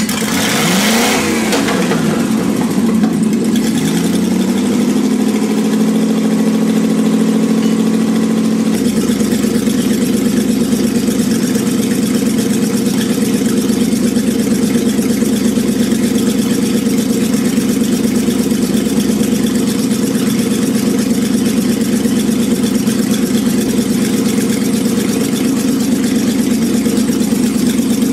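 Tatra 603 air-cooled V8 engine just after starting: it revs up and down for the first couple of seconds, then settles into a steady idle.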